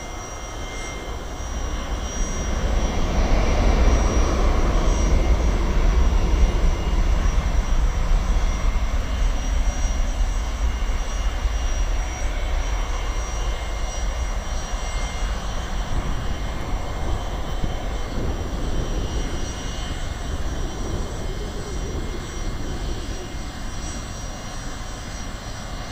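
Airliner's engines rumbling as it passes close by: the deep rumble builds over the first few seconds, peaks, then slowly fades away.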